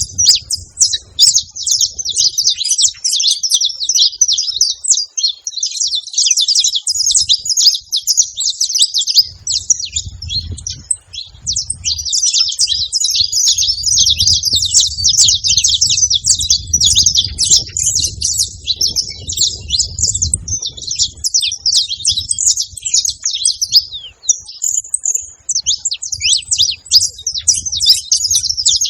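Saffron finch singing: a long, fast run of high chirps and trills, nearly unbroken, with one short pause near the end. A faint low rumble sits under the middle of it.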